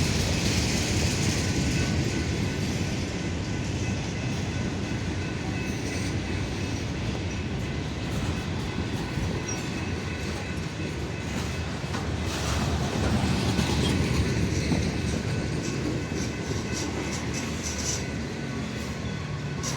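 Freight train on the move: a steady low rumble of the locomotive and cars, with wheels clicking over the rail joints now and then.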